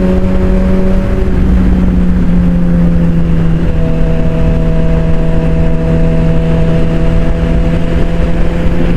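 Suzuki GSX-R600 sportbike's inline-four engine running at a steady cruise, its pitch easing slightly lower about two seconds in and then holding, with wind rumbling on the microphone.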